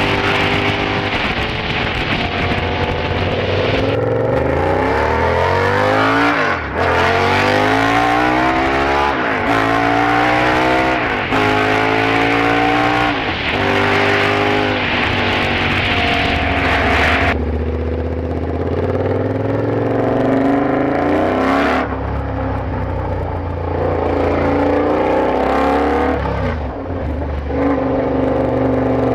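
KTM 1190 R's V-twin engine pulling hard through the gears, its note climbing and dropping back at each upshift, then falling off to a lower steady note about 17 seconds in before building again. It is heard through a Bursig exhaust tip with no sound deadening.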